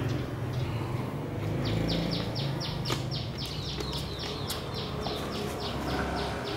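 A bird calling in a long, rapid run of short falling chirps, about four a second, starting about two seconds in, over a low steady rumble.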